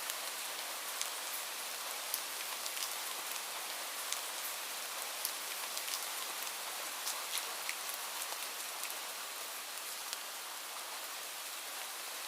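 Steady rain falling, an even hiss with many separate drops ticking sharply on a surface close by.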